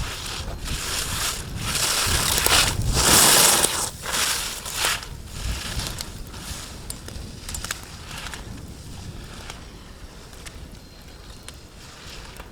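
Ski edges scraping and hissing on hard snow through a run of slalom turns, each turn a surge of sound; loudest a few seconds in, then fading as the skier moves away.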